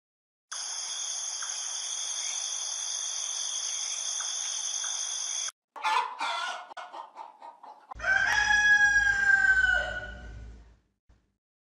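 A steady high-pitched drone for about the first half, then hens clucking and a rooster crowing once, a long call about two and a half seconds long that falls slightly in pitch at the end.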